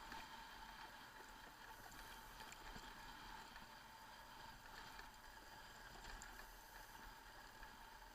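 Near silence: a faint steady hiss with a faint steady tone.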